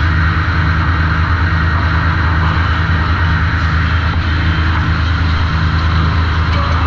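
Sawmill machinery at the trim saw running steadily, a loud, continuous low hum with a higher rushing noise above it.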